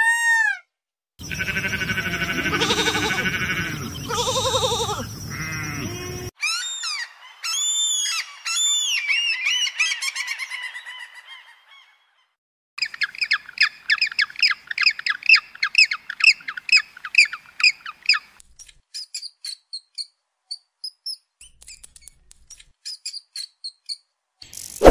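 A sequence of animal calls: an Indian peafowl calling loudly for the first few seconds, then a flock of black-headed gulls calling rapidly from about halfway, then thin, high squeaks of a mouse near the end.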